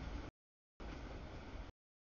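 CSX autorack freight train rolling through a grade crossing: a steady low rumble of wheels on rail with no horn or clear bell tone. The audio drops out twice to dead silence, the abrupt dropouts of a streaming camera feed.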